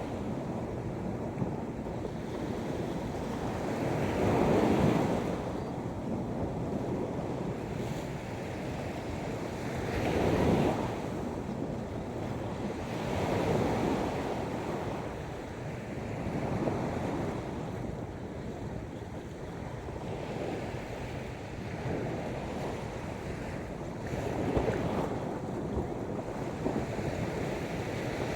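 Sea waves breaking and washing onto the shore, surging every few seconds over a steady wash.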